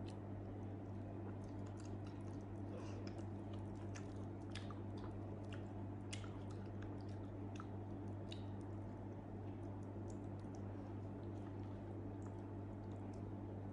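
Close-up mouth sounds of someone chewing soft grilled eggplant, with irregular wet smacking clicks, over a steady low electrical hum.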